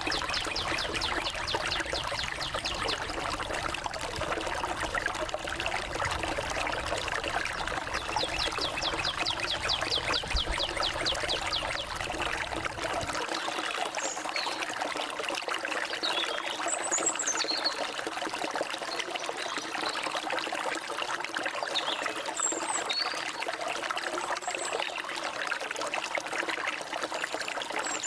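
Forest stream trickling and splashing steadily, with birds singing over it: a fast trill of rapid repeated notes in the first half, then scattered short high chirps. A low rumble under the water drops away about halfway through.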